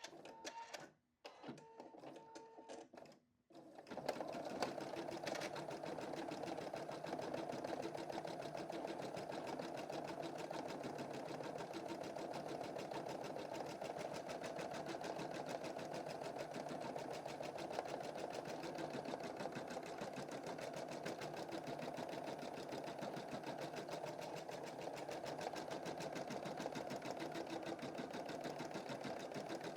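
Embroidery machine stitching a design: a few seconds of stop-start sound with short silent gaps, then about four seconds in it settles into steady, fast, continuous stitching.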